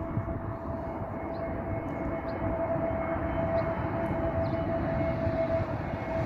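Jet airliner engines running, a steady whine over a broad rumble that grows slowly louder.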